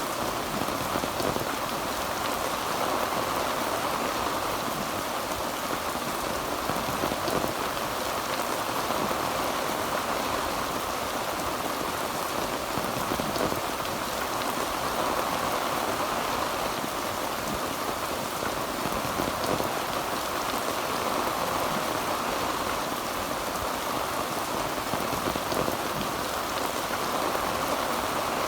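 Heavy rain falling on a tin roof: a dense, steady patter of drops that swells and eases slightly every few seconds.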